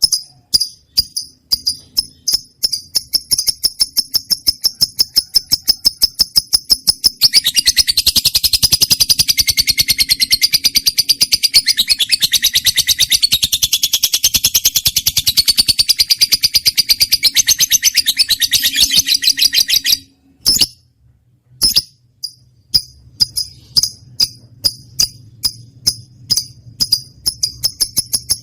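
Lovebird singing. It starts with sharp high chirps repeated in quick succession, which soon speed up, then runs into a long, fast, unbroken chattering trill. After a brief gap about two-thirds of the way in, the rapid repeated chirps return.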